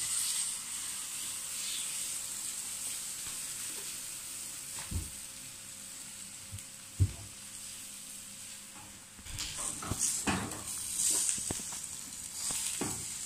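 Vegetable pancake batter sizzling steadily in hot oil in a frying pan, with a metal utensil knocking and scraping against the pan: a sharp knock about seven seconds in and a run of scraping strokes near the end as the pancake is worked and turned.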